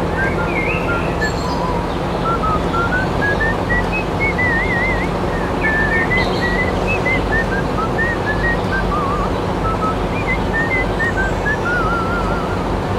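A steady mechanical hum and noise throughout, with many short whistled chirps and little trills scattered over it.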